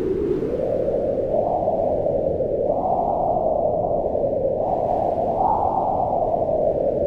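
Wind blowing in a steady low rush, swelling and easing in pitch in several slow gusts.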